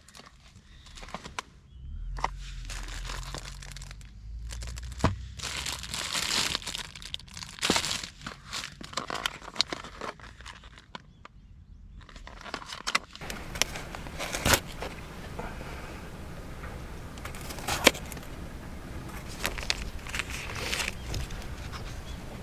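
Crinkling and rustling, as of plastic bags or stuff sacks being handled, with scattered sharp clicks and knocks. A steady rushing hiss joins about halfway through.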